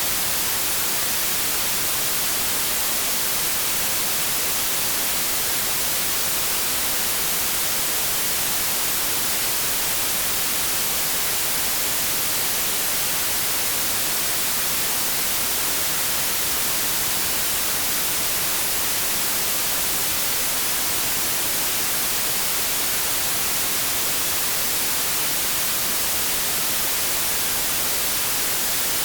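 Synthetic white noise: a steady, even hiss that never changes, strongest in the high frequencies.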